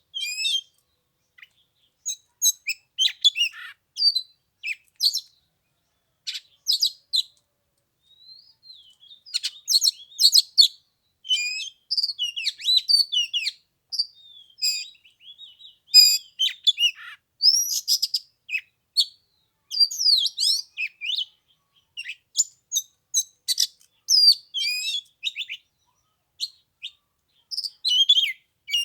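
Oriental magpie-robin singing: a varied run of quick, high whistles and chirps in short phrases with brief pauses between them.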